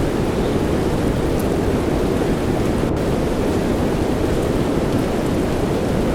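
Steady soft rain blended with white noise: an even, deep rushing hiss with no breaks.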